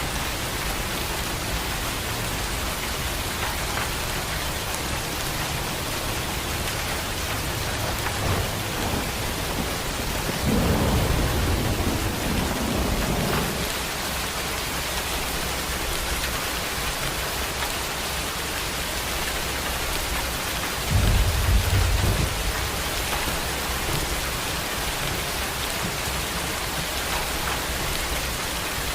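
Heavy rain pouring steadily, with two low rolls of thunder: one about ten seconds in that rumbles for about three seconds, and a shorter, louder one a little past the twenty-second mark.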